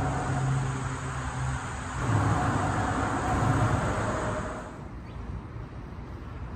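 A motor vehicle going by: a low engine hum with a rushing hiss, which swells about two seconds in and falls away sharply near the three-quarter mark, leaving a quieter hiss.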